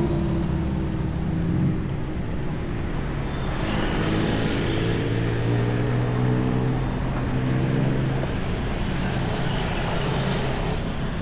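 Street traffic: motor vehicle engines running close by over a steady traffic hum, with one engine's steady drone loudest from about four seconds in until near the end.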